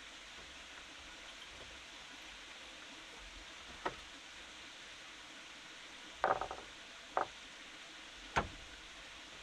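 A few separate knocks and a short rattling clatter, hard objects striking or being set down, over a steady hiss. One knock comes about four seconds in, the clatter a little after six seconds, then another knock and a sharper one near the end.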